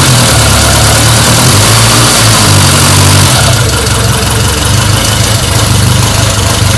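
1949 Ariel Square Four motorcycle's four-cylinder engine running on its first start after a rebuild. It turns a little quieter and less bright about three and a half seconds in.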